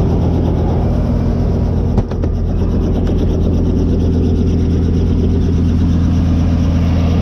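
Tour helicopter's engine and rotor drone, heard steadily from inside the cabin in flight, with a single sharp knock about two seconds in.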